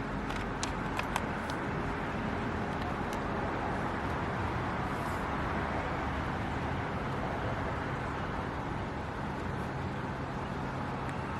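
Steady background noise, an even hiss with a low rumble, and a few faint light clicks in the first second and a half.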